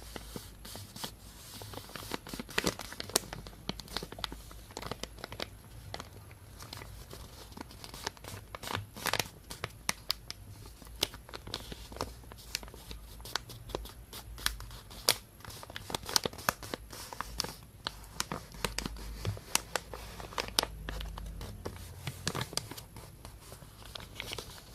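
Thin plastic shopping bag crinkling and rustling close to the microphone, in a run of irregular sharp crackles.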